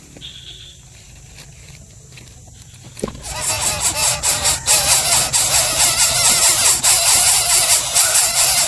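Coucal chick giving a loud, harsh squealing call that starts abruptly about three seconds in and keeps going, after a few seconds of faint clicks.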